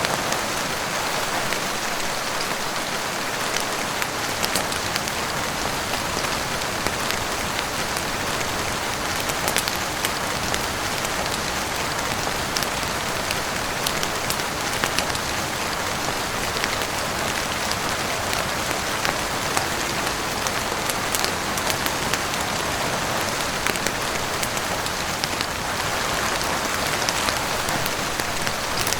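Heavy rain falling steadily on a roof, a dense even hiss with many sharp little ticks scattered through it.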